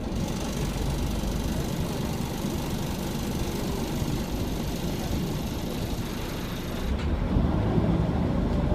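Scania OmniCity bus's five-cylinder diesel engine running with a steady low rumble. A high hiss sits over it and cuts off sharply about seven seconds in, after which the engine rumble grows a little louder.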